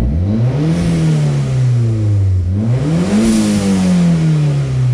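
Toyota Celica All-Trac ST165's 3S-GTE turbocharged four-cylinder revved twice from idle, each rev climbing quickly and then falling back slowly, the second rev higher. The engine is warm and running in closed loop, and it revs cleanly with no stumble: she sounds good.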